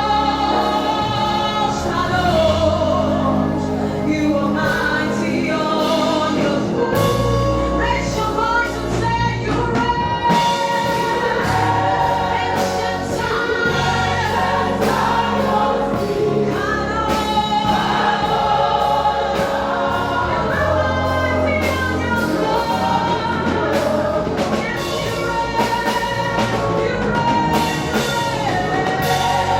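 Gospel worship song: a choir and lead singer over a live band with bass and drums.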